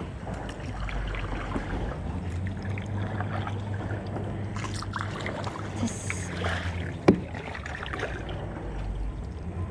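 Kayak paddling: paddle blades dipping and splashing in the water over a steady low rumble, with one sharp knock about seven seconds in.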